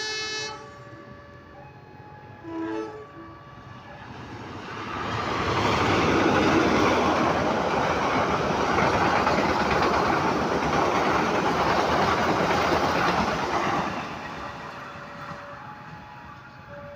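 A train sounds the tail end of its horn, then gives a short toot about three seconds in. The rumble and rattle of the train passing then builds, holds loud for about eight seconds, and fades away near the end.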